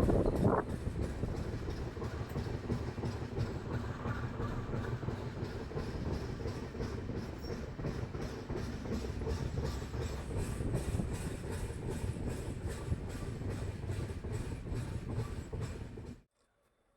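Mayiladuthurai–Mysuru Express passenger train running along the track: a steady rumble with the clickety-clack of the wheels, with a brief louder rush just after the start. It cuts off abruptly near the end.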